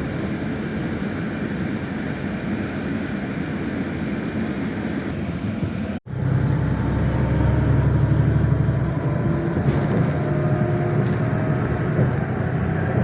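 Car driving: steady engine and road noise. There is a brief dropout about six seconds in, after which the low rumble is louder.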